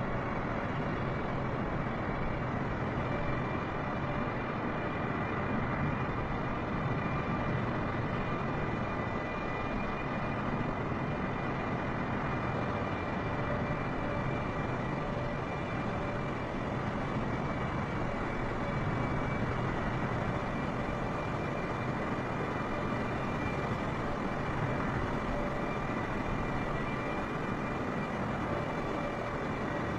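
Jet airliner's engines running steadily, a constant rush of noise with a few faint steady whining tones over it.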